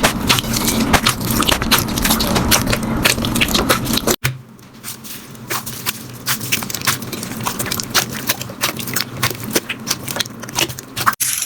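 Slime being squished and pressed, a dense run of crackling, popping clicks. About four seconds in it cuts suddenly to a quieter clip of the same crackling, and there is another sudden cut near the end.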